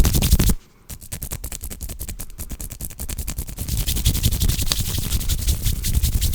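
ASMR hand sounds close to the microphone: hands rubbing and scratching in fast, rapid strokes, with a brief stop about half a second in before they start again.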